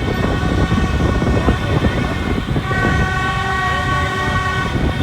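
Dense street noise of motorbike engines and a crowd, with horns tooting; one long horn note is held from about three seconds in to near the end.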